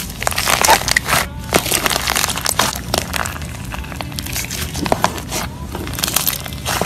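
Irregular crinkling and crackling, many short sharp rustles close together, over a low steady hum.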